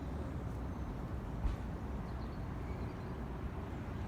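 Steady low outdoor background rumble, with a single faint knock about a second and a half in.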